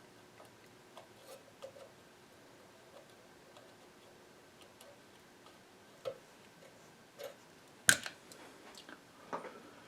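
Scattered small clicks and taps of hand tools and wires on a metal radio chassis during wiring work, with one sharp, louder click about eight seconds in.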